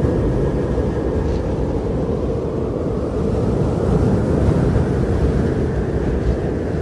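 Strong blizzard wind blowing steadily in a deep rumbling roar, swelling in a gust about halfway through.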